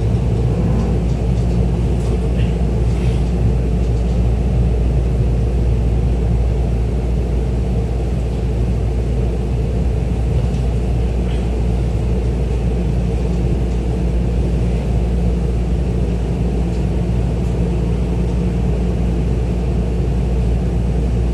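Running noise inside a Tokyo Metro 10000 series electric train car: a steady low rumble of wheels on rail and the car body as the train rolls along and slows for its station stop.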